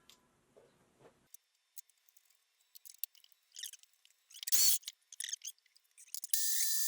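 Small metallic clicks and handling noises of tooling being set up, with one short rasping scrape about halfway through. Near the end a small high-speed machine spindle starts and runs with a steady high-pitched whine.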